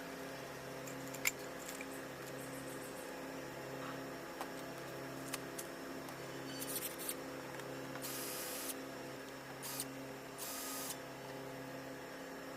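Steady low electrical hum with scattered light clicks and two short hissing scrapes about eight and ten and a half seconds in: small handling noises from work on an electric scooter's plastic body panels.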